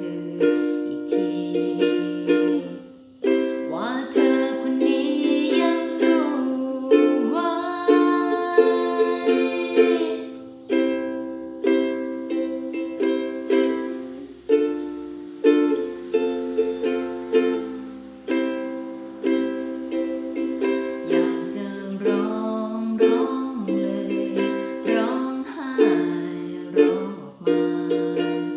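Ukulele strummed in a steady rhythm, playing a chord progression.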